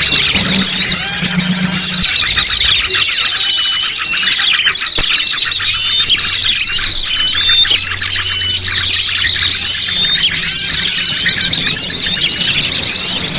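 A dense, loud chorus of many small birds chirping and whistling over one another, in rapid rising and falling calls, from a bird-luring (pikat) recording played to draw wild birds in.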